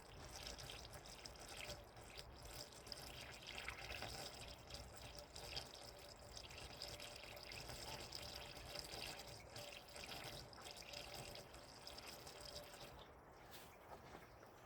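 Faint trickle of liquid being poured in a thin stream, thinning out near the end.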